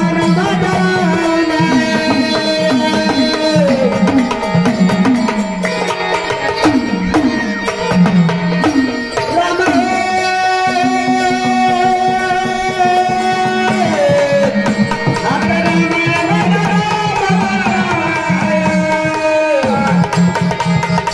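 Marathi devotional folk music of a gondhal performance: a hand-drum rhythm under a continuous melody line of held and gliding notes, with a long held note about halfway through.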